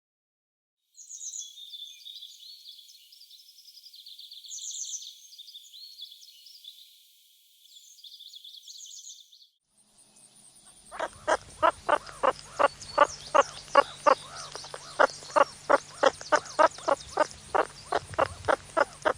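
Small birds chirping and singing for about eight seconds. After a short pause, an animal call repeats about two to three times a second over a steady high insect-like hiss.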